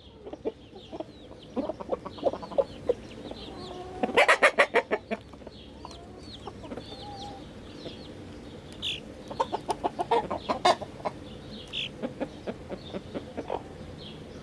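Flock of chickens clucking and calling while being fed, with short high calls throughout. Two runs of quick, loud sharp sounds stand out, one about four seconds in and another around ten seconds.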